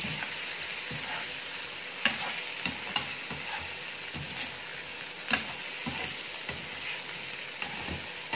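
Boiled potato cubes frying in ghee with cumin in a kadhai, sizzling steadily while a slotted spatula stirs and scrapes them around the pan. Sharp clinks of the spatula against the pan come about two, three and five seconds in.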